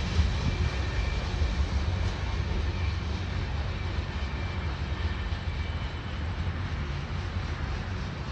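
A freight train's rear cars, tank cars and a covered hopper, rolling away on the rails: a steady low rumble that slowly fades as the train recedes.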